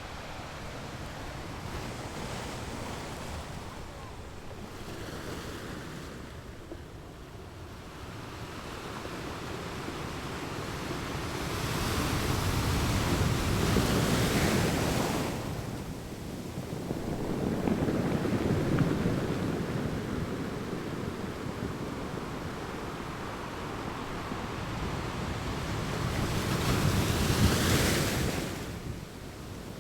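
Ocean waves crashing on a rocky beach: a continuous wash of surf that swells into three big breakers, two near the middle and one near the end, each building and then falling away.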